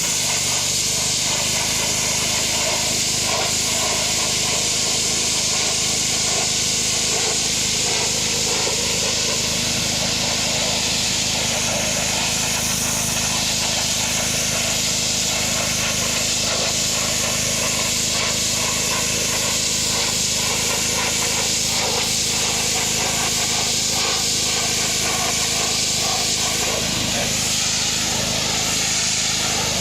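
Pressure washer blasting a high-pressure water jet onto a wooden fence gate, a steady loud hiss of spray over the machine's low, even hum.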